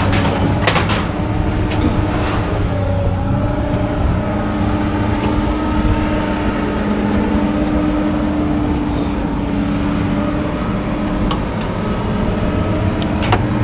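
A vehicle engine running steadily, with a few short metallic knocks.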